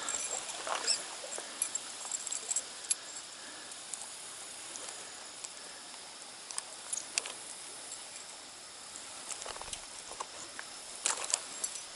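Steady hiss of flowing stream water, with scattered light clicks and taps from handling the caught trout and tackle, several close together near the end.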